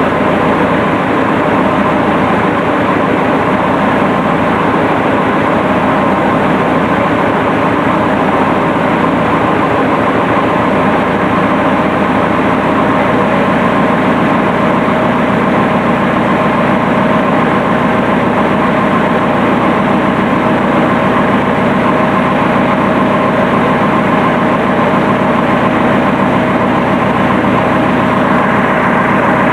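Massey Ferguson Super 90 tractor's diesel engine running steadily at a constant speed.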